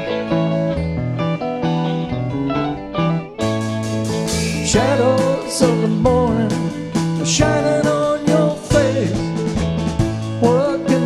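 A live rock band plays: guitars over bass and drums. About three seconds in, the full band comes in louder, with a bending melody line over it.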